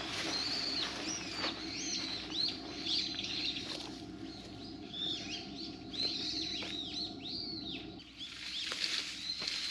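Small birds chirping, many short arched high calls repeating throughout, over a low steady hum that drops out near the end.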